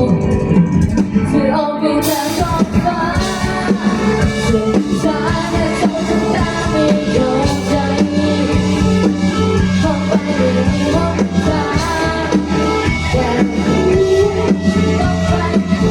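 A student band playing a song live, with a lead singer over a band; a bright crash about two seconds in.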